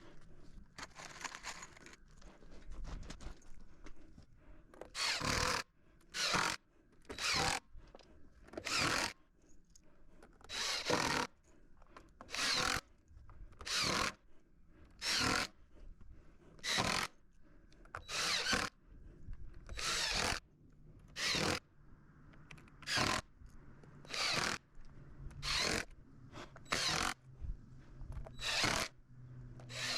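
Hand saw cutting through wood in slow, even strokes, a rasping stroke about every one and a half seconds, starting about five seconds in.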